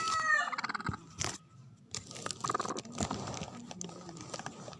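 A chicken's call trails off in the first half-second, followed by scattered crunching and clicking, typical of a hen and chicks pecking at feed.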